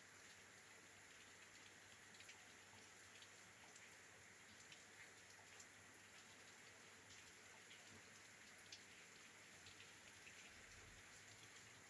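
Faint, steady rain, with scattered drops tapping against a window.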